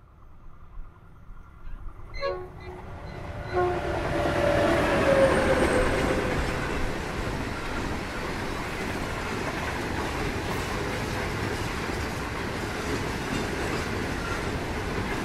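An 82 class diesel locomotive hauling a train of grain hopper wagons, approaching and passing. It sounds a short horn toot about two seconds in, then a longer horn blast about a second later whose pitch drops as the locomotive goes by. A steady rumble and clatter of the wagons rolling past follows.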